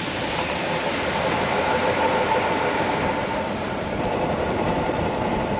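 Vehicle driving on the road, a steady rumble of road and engine noise with a faint hum running through it.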